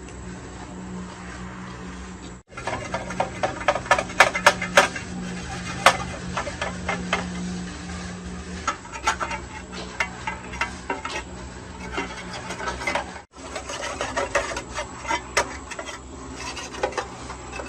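Hand tools clicking, tapping and scraping on metal over a steady low hum; the sound drops out briefly twice.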